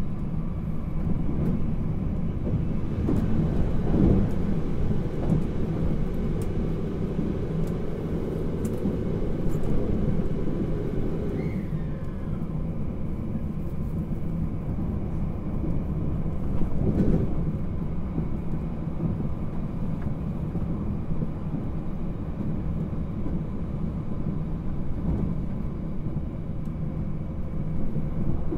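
Running noise inside the passenger cabin of a JR Hokkaido 789 series 1000 subseries electric train, recorded in a motor car: a steady low rumble of the train on the rails, with a few brief louder bumps, notably about four and seventeen seconds in.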